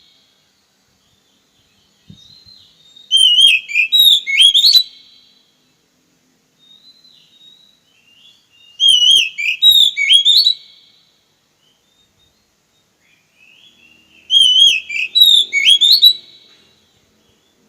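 Oriental magpie-robin singing: three loud, about two-second phrases of quick rising and falling whistles, spaced about six seconds apart, with soft short notes in between.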